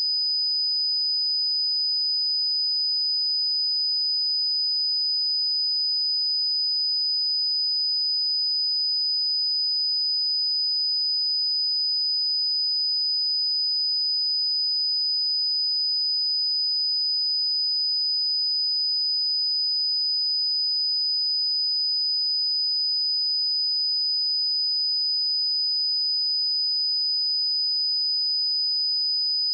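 A single steady, high-pitched 4988 Hz sine-wave test tone, held at a constant level.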